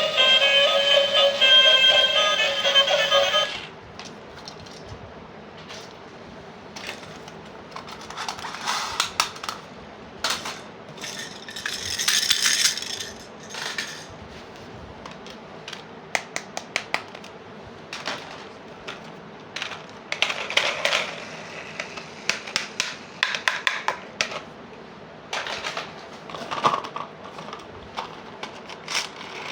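Background music with a violin tune for the first three and a half seconds, then small plastic toy pieces being handled: scattered sharp clicks and taps with short rustles, from a toy doll bedroom set being put together.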